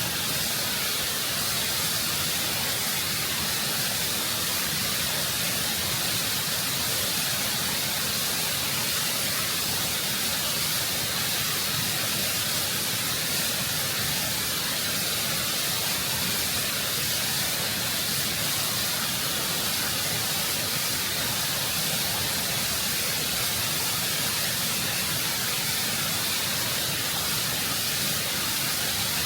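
Waterfall: water rushing and cascading over rock, recorded close up, a steady full hiss with most of its energy high up.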